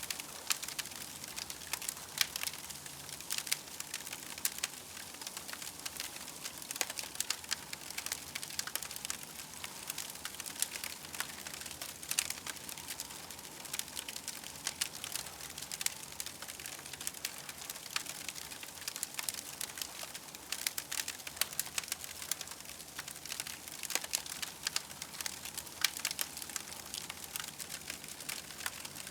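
Campfire crackling: dense, irregular small pops and snaps over a steady soft hiss.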